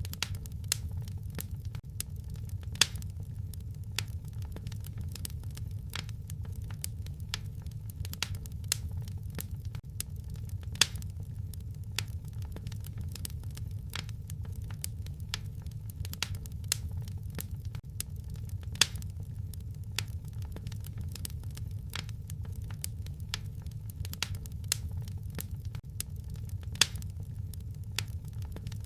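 Wood fire crackling in a fireplace: a steady low rumble of flames under frequent small snaps and a few louder pops. The same pattern of pops repeats about every eight seconds.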